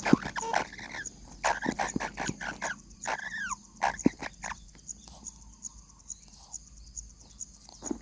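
Nestling birds stirring in the nest: scattered scratching and tapping with a few short chirps that fall in pitch, over a faint, even, high ticking.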